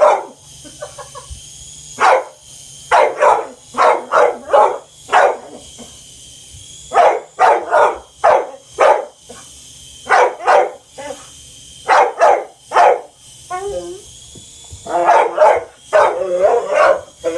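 Dog barking excitedly in rapid runs of two to five barks with short pauses between them. A few calls break into a wavering, whining yelp.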